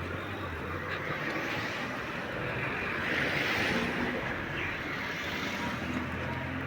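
Steady running noise of a vehicle in motion: a low hum under a broad rushing sound that swells for a second or so about three seconds in.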